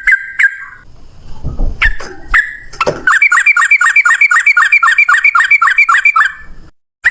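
Sooty-headed bulbul (trucukan) singing loudly: a few sharp, clear notes, then a long rapid trill of fast repeated notes lasting about three seconds, delivered in one breath, which breaks off abruptly near the end.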